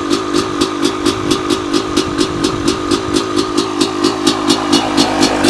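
Suzuki RM250 two-stroke dirt bike engine idling while it warms up after a cold start, with a steady, even pulse of about four to five beats a second.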